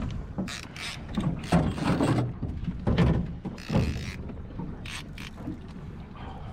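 Fishing reel mechanism clicking and rattling in irregular bursts while a hooked wahoo is being fought.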